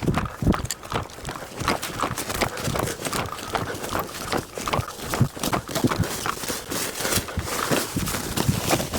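Dense, irregular rustling and crunching: many short crackles close together with no steady rhythm.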